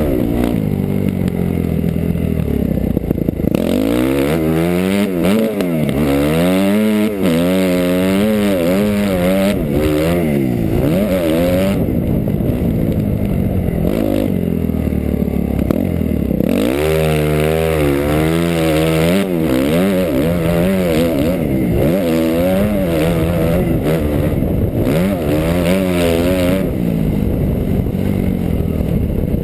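2008 Suzuki RM-Z250 four-stroke single-cylinder motocross engine heard close on board, revving up and down as the throttle opens and shuts and it shifts gears. It runs steadier near the start and again for a few seconds in the middle, and between those spells the pitch rises and falls about once a second.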